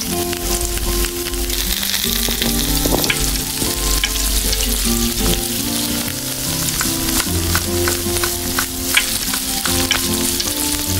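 Food sizzling as it fries in a miniature pan, with sharp clicks of a utensil as it is stirred, under background music with held notes.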